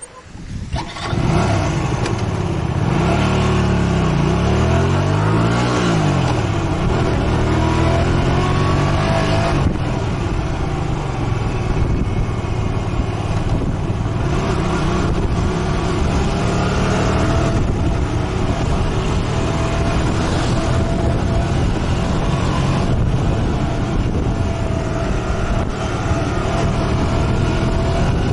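Motorcycle engine running while riding, its pitch rising and falling over the first few seconds as it revs through the gears, then holding steady at cruising speed under a constant rush of wind and road noise.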